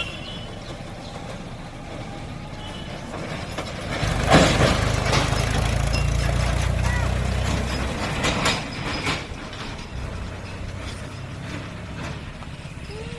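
Mahindra tractor's diesel engine running as the fully loaded tractor passes, its low steady engine note loudest for a few seconds in the middle. A few sharp knocks and rattles sound as it goes by.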